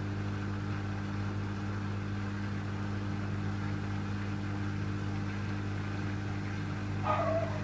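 Beko washing machine running a cottons 60 °C wash: a steady mechanical hum. A brief higher-pitched sound comes near the end.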